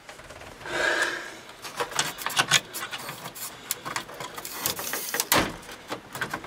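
Irregular light metallic clicks and knocks from hand-tool work on a truck's body and bolts, with one louder knock about five seconds in.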